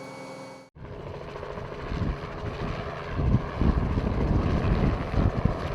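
Gusty wind buffeting the microphone: a steady rush with irregular low rumbling surges.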